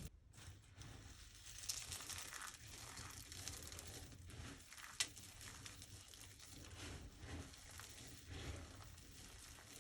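Dry soap being crushed and crumbled by hand: a soft, continuous crackle with scattered small crunches and one sharp snap about five seconds in.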